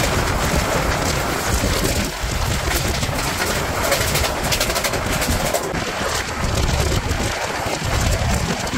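Karnavati Express passenger train running at speed, heard from an open coach door: a steady rush of wind and wheel-and-rail noise, with a train on the next track passing close by.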